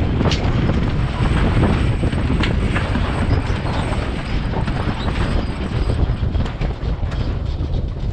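Strong wind buffeting the microphone aboard a sailboat under way, with scattered short knocks and slaps.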